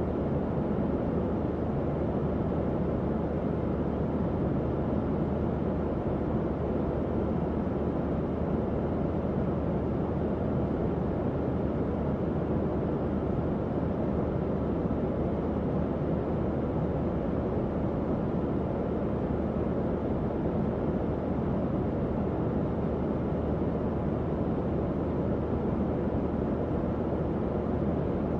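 Tower fan running steadily: an even, low whoosh of moving air with a faint steady hum underneath.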